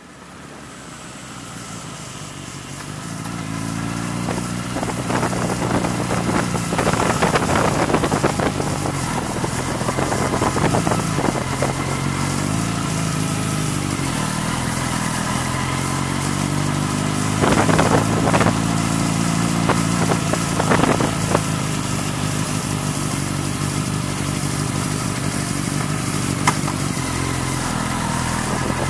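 Motorcycle engine running as the bike is ridden through city streets, its pitch rising and falling with the throttle. The sound fades up over the first few seconds, and several short louder rushes of noise come in through the middle.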